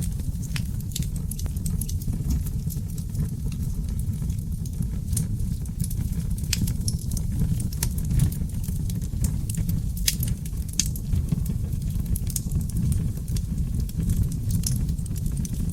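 Seasoned oak logs burning in a fireplace, crackling and popping: sharp, irregular pops scattered throughout over a steady low rush of the flames.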